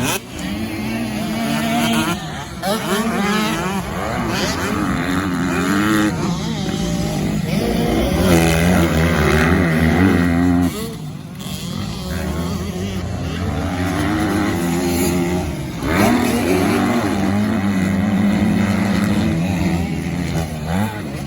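Motocross dirt bike engines revving hard, the pitch climbing and dropping again and again as they work through the gears, with more than one engine heard at once.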